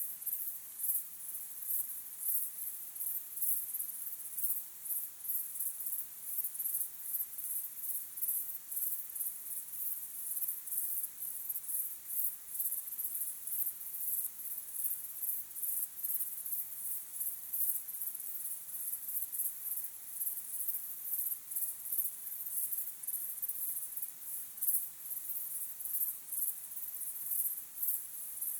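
Crickets chirping, a continuous high-pitched pulsing chorus.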